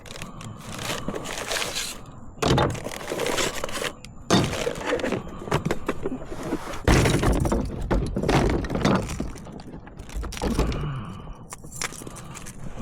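Irregular knocks, scrapes and clatter of gear being handled on a kayak while pliers are fetched to unhook a caught fish, with a heavy thump about seven seconds in.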